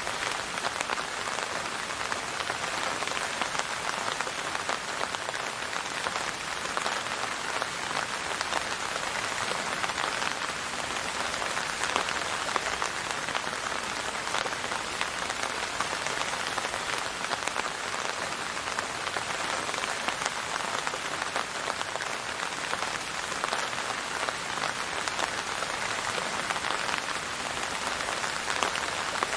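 Steady rainfall: a dense, even patter of drops on a surface, holding at one level with no let-up.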